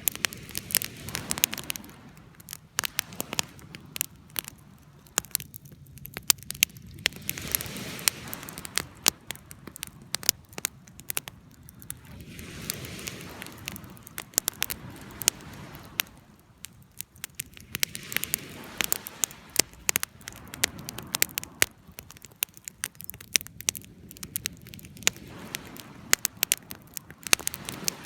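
Wood campfire burning: steady crackling with frequent sharp pops, over a rushing hiss that swells and fades every few seconds.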